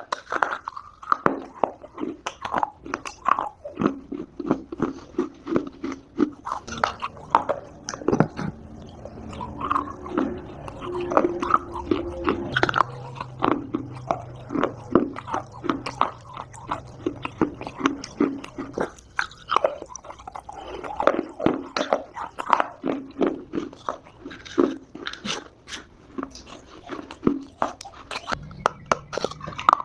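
Close-miked biting and chewing of dry Multani mitti (fuller's earth clay) chunks: many sharp, irregular crunches and crumbling clicks in quick succession.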